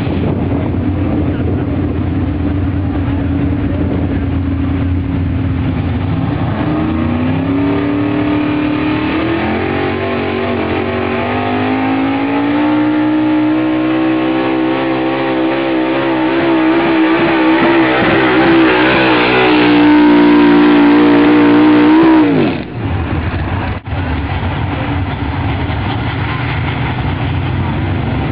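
Altered stock pulling truck's engine revving up in steps and then held at high revs under load, its pitch creeping higher and getting louder for over ten seconds. About 22 seconds in the throttle is cut and the engine drops sharply back to a low running note.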